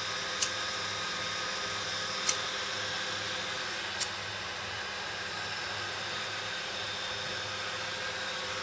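Four high-powered fans of a 1U rackmount server chassis running at idle, a steady rush of airflow with a faint whine of several tones; they are temperature-controlled and spinning slowly because the sensor reads everything cool. Three short sharp clicks sound at about half a second, two seconds and four seconds in.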